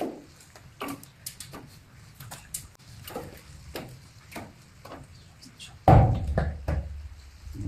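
Irregular knocks and clicks, then a sudden loud thump about six seconds in, followed by a low rumble.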